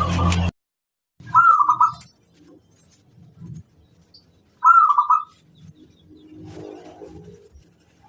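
Perkutut (zebra dove) cooing: two short, separate coo phrases about three seconds apart. Before the first phrase, a louder stretch with a low background drone cuts off suddenly half a second in.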